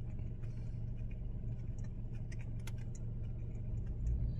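Steady low hum of a car's idling engine inside the cabin, with faint scattered clicks of chewing a jelly donut.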